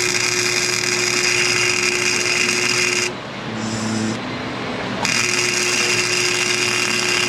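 Wire-feed welder arc buzzing steadily in two runs of about three seconds each, with a short break between them, as a nut is welded onto a broken exhaust manifold stud.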